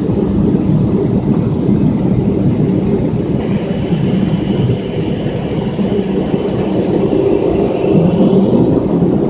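Cabin noise aboard a McDonnell Douglas MD-82 during takeoff: a loud, steady rumble from the rear-mounted jet engines and the airframe, with engine tones rising slightly near the end.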